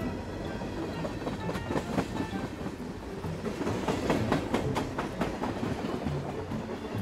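A train running, its wheels clacking over the rail joints, with clusters of sharper clicks about a second and a half in and again about four seconds in.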